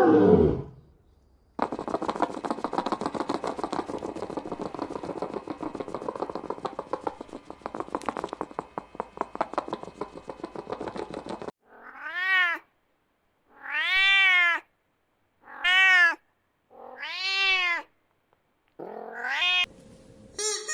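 Domestic cat meowing: four drawn-out meows that rise and fall in pitch in the second half, then a shorter one near the end. Before them comes about ten seconds of a rough, rapidly pulsing sound, and the tail of a deep falling roar opens the stretch.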